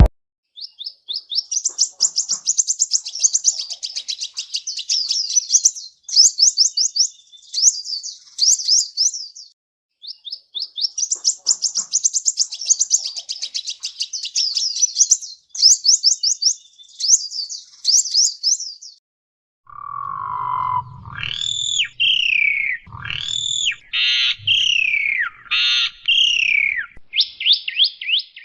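A songbird singing: two long phrases of rapid, high-pitched chirping, then from about 20 s in, lower whistled notes that sweep downward, with dull low thuds beneath them.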